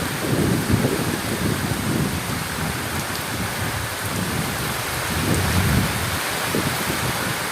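Heavy rain falling steadily with low, rolling thunder rumbling underneath. The rumble swells in the first second and again around the middle.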